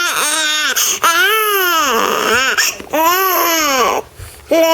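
Infant crying in a run of wails, each rising and falling in pitch, about one a second, with a brief catch of breath near the end before the crying starts again.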